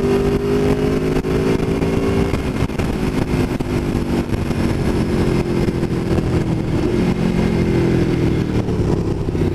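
2017 Aprilia Tuono V4 1100 Factory's V4 engine running under way while ridden, with wind noise. The engine note climbs for about two seconds, drops, and climbs again near the end.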